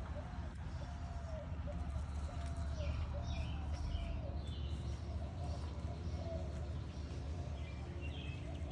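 Doves cooing repeatedly, with small birds chirping now and then, over a steady low background rumble.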